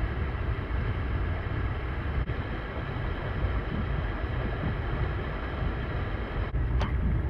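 Steady rush of a mountain stream pouring over a waterfall into a swimming hole, with a deep, uneven rumble of wind on the microphone.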